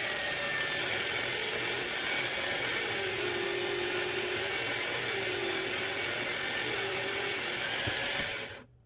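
A small power tool runs steadily, spinning a cue while its layered leather tip is sanded with 1200-grit paper, heating the tip. Its pitch sags and recovers a few times under the pressure, and it cuts off abruptly near the end.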